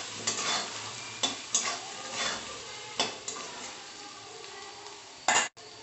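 Potato wedges and ground spices sizzling in oil in a metal kadai while a metal spatula stirs and scrapes them in repeated strokes, as the spices are fried together with the potatoes. A louder stroke comes near the end, followed by a brief break in the sound.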